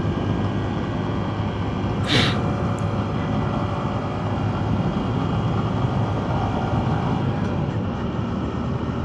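Honda motorcycle engine running steadily while riding, with wind and road noise. A short hiss cuts in about two seconds in.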